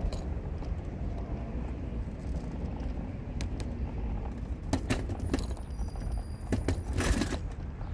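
A car driving, heard from inside: a steady low rumble of engine and road, with a few short knocks and rattles over the second half, the longest one about seven seconds in.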